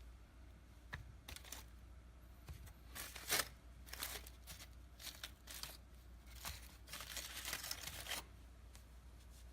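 Roasted tangerine peel being torn and pulled off: irregular crinkly tearing sounds in short strokes, a few of them drawn out near the end.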